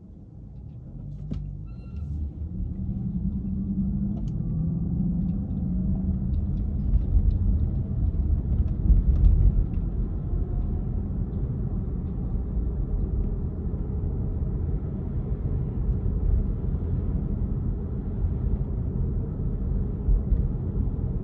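Car driving: a low rumble of engine and road noise that builds over the first few seconds as it gets moving, then holds steady. There are a few faint clicks and a short high tone about two seconds in.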